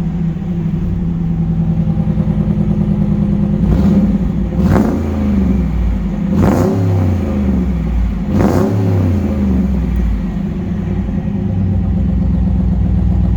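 A 2011 Dodge Ram's 5.7 V8 engine idling through its exhaust stacks, revved in three short blips about two seconds apart that rise and fall back to idle.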